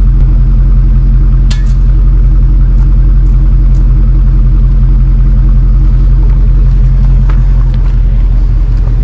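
A vehicle engine idling steadily with a deep, even rumble, with a sharp click about one and a half seconds in.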